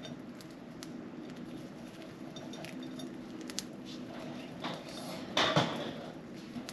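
Budgies pecking at and husking millet seeds, a run of small sharp beak clicks and taps, with one louder scuffling rustle about five and a half seconds in.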